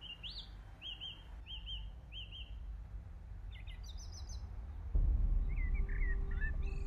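Birds chirping: a short high note repeated about twice a second, then more varied calls, over a low steady rumble that gets suddenly louder about five seconds in.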